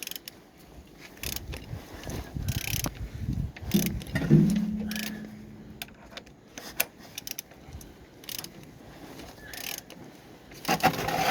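Suzuki M13A 1.3-litre four-cylinder engine being turned over by hand: irregular clicks, knocks and mechanical rumbles of the crank and internals rotating, with a sharper metallic knock about four seconds in that rings on briefly. The engine turns well, with compression in all cylinders.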